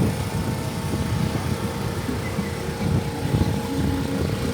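Car driving on a wet road, heard from inside: a steady low road rumble under an even hiss of tyres and rain.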